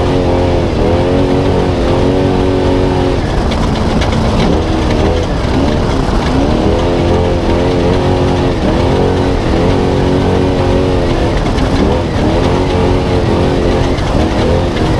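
Spec Trophy Truck's V8 engine under race load, its revs rising and falling again and again, with short breaks in the pitch around four to six seconds in, over a constant heavy rumble and rattle from the truck.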